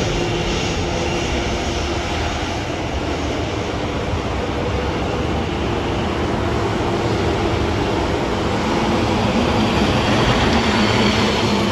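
Aircraft engines running steadily: an even, noisy rumble with a few faint steady tones, growing a little louder near the end.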